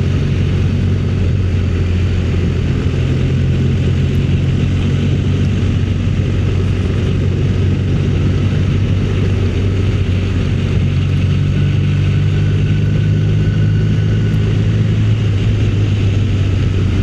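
Motorcycle engine running at a steady cruising speed, with wind rush on the rider's microphone.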